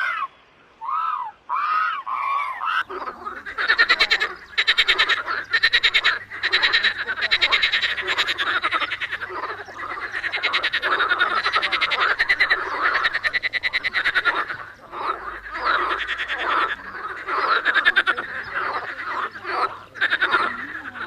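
A few separate calls in the first three seconds, then a dense chorus of many animals calling at once, their rapidly pulsed calls overlapping without a break.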